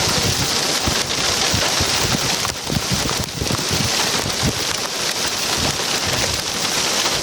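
Heavy rain and hail pelting a vehicle in a microburst's downburst winds: a dense hiss of rain with irregular hard knocks of hailstones striking throughout.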